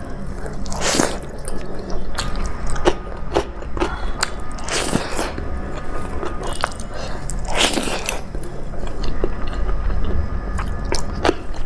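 A person eating close to the microphone: biting and chewing crunchy food, with frequent small clicks and a few louder crunches.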